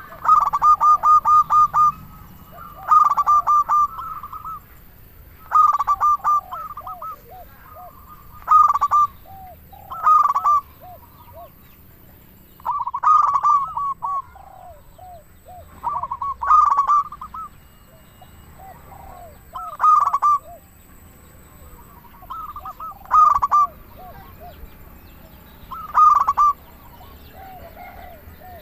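Zebra dove (perkutut) cooing its staccato song: a quick run of notes trailing into softer, lower coos, repeated about every three seconds.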